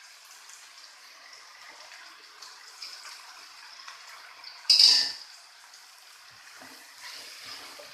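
Chicken frying in oil in a pan, a steady sizzle. About five seconds in there is a sudden, much louder hiss that dies away within half a second.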